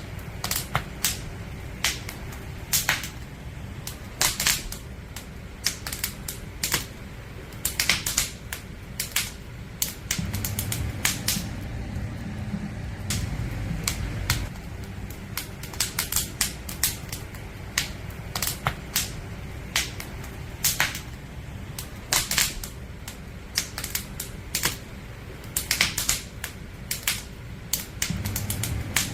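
Firewood crackling in a campfire: irregular sharp pops and snaps, several a second, over a steady low rumble.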